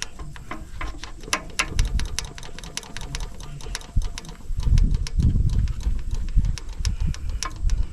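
Rapid, irregular clicking from the hand-priming lever of a 1954 Fordson diesel tractor's fuel lift pump as it is worked to push diesel up to the filter, with some low handling knocks about halfway through. The pump does not seem to be pumping much.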